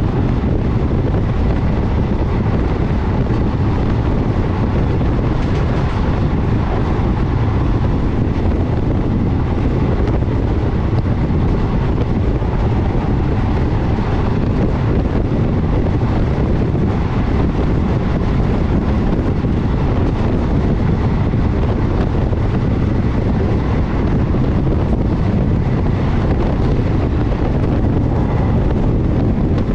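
A passenger train running at speed, heard from on board with heavy wind buffeting the microphone: a steady, loud rumble with no breaks.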